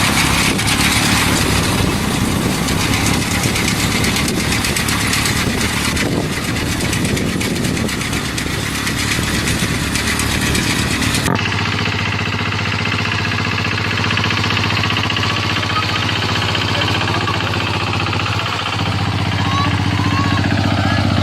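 Engine running steadily. About eleven seconds in, the sound changes abruptly to a different engine idling with a steady low hum.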